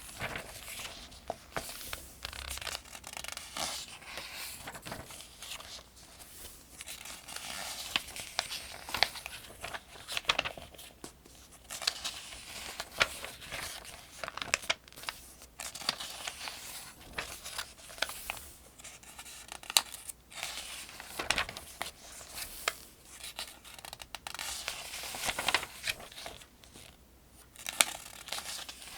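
Pages of a paper almanac being turned by hand, one after another: repeated swishes of paper with crisp crackles and flicks as each page flips over.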